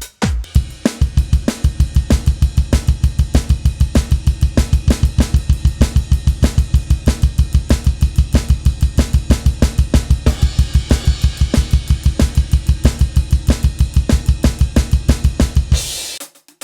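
KAT Percussion KT4 electronic drum kit played through its sound module: a fast, steady run of bass drum strokes under snare, hi-hat and cymbals, ending with a cymbal crash and a sudden stop near the end.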